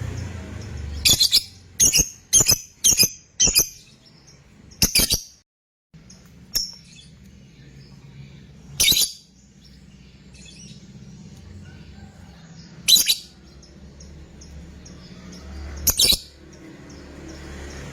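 Lovebird giving short, shrill, high-pitched calls: a quick run of about six in the first few seconds, then single calls every three to four seconds. A low hum runs underneath, and the sound drops out briefly about five seconds in.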